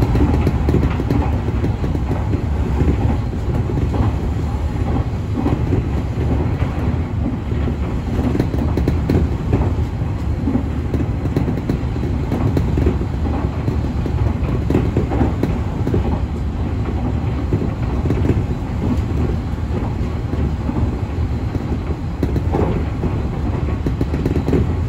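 Nankai 1000 series electric train running along the track at speed, heard from inside the front car: a steady low rumble of wheels on rail with scattered clicks.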